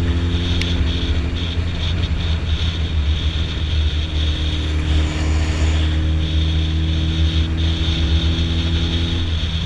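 Suzuki Hayabusa's inline-four engine, fitted with M4 exhausts without the dB killer, cruising at a steady speed: an even, deep engine drone heard from the rider's seat, over wind hiss.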